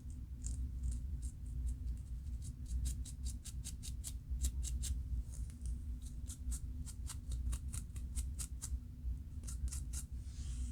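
Scratching at the scalp to loosen dandruff flakes between locs, in quick crisp strokes about three or four a second, over a low steady hum.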